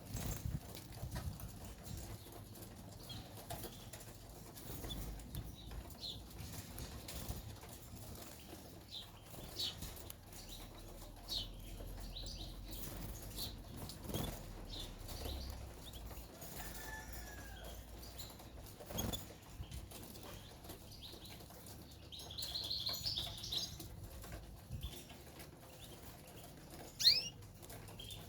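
Caged canaries fluttering about and giving short, scattered chirps, with a brief trill late on and one loud chirp near the end.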